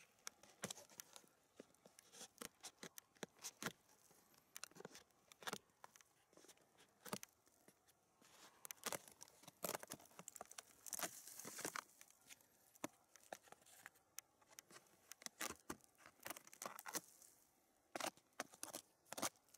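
Birch bark being peeled and torn off a fallen dead birch: a string of faint, irregular crackles and snaps, with a longer tearing rasp about nine to twelve seconds in.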